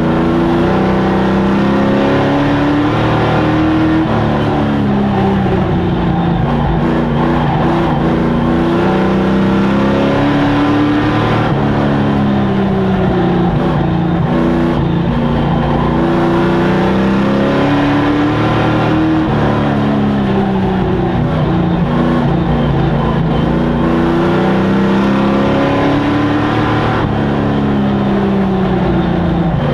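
Racing sport truck engines running at full race pace, revving up and dropping back again and again, about every four seconds, as they lap a short oval track.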